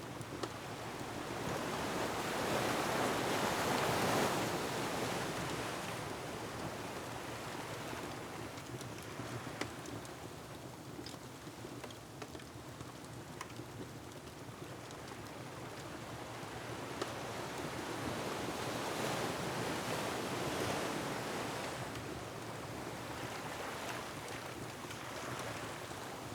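Ocean surf washing in and out in slow swells, loudest about four seconds in and again around twenty seconds in, with occasional sharp pops from a crackling wood fire.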